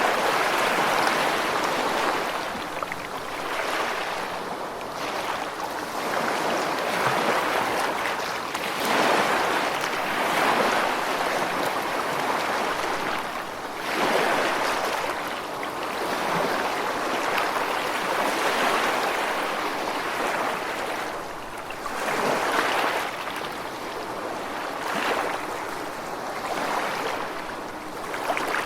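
Ocean waves washing onto a shore, a steady hiss of surf that swells and falls back every few seconds.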